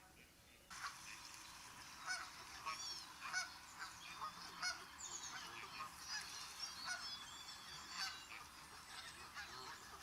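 A flock of birds calling, with many overlapping goose-like honks and sharper chirps, starting abruptly a little under a second in.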